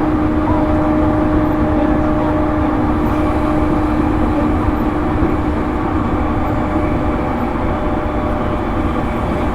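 Interior running sound of a JR East E231 series electric train's motor car at speed: a steady rumble of wheels on rail with a constant hum held on one pitch.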